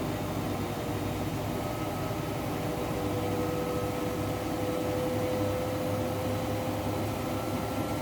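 Washing machine running with a load of blankets: a steady mechanical hum with a thin motor whine that grows stronger through the middle.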